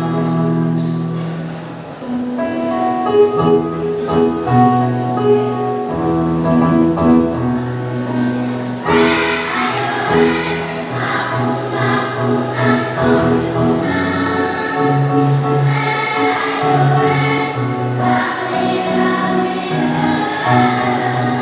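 Primary-school children's choir singing with instrumental accompaniment. The accompaniment holds steady notes at first, and the massed voices come in strongly about nine seconds in.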